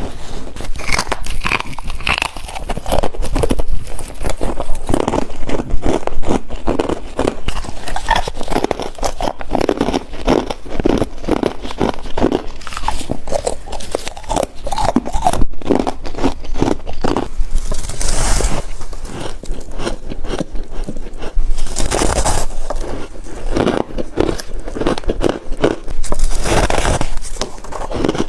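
Close-miked biting and chewing of chunks of freezer frost: a dense, continuous run of crisp crunches, with a few louder, hissier bites.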